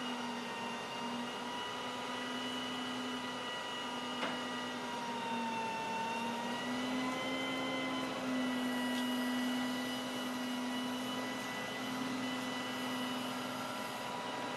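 Peterbilt garbage truck's engine and crane hydraulics running, a steady whine whose pitch drifts slowly up and down as the crane works. A single short knock about four seconds in.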